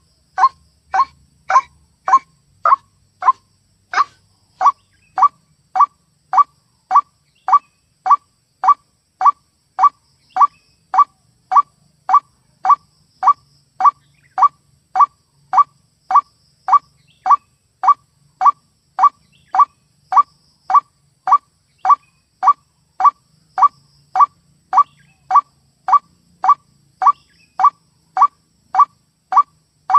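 White-breasted waterhen calls, a short 'ruak' call repeated evenly about twice a second, from a lure recording used to draw waterhens into traps.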